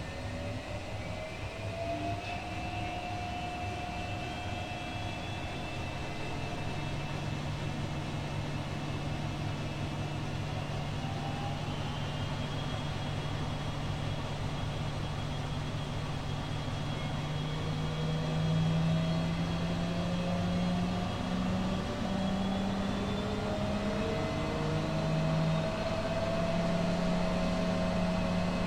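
Two Schulthess washing machines, a Spirit topLine 8120 and an eMotion 7040i, spinning at the same time. Their motors give a steady hum and whine whose pitch glides up and settles at a new pitch several times as the drums gain speed, a little louder toward the end.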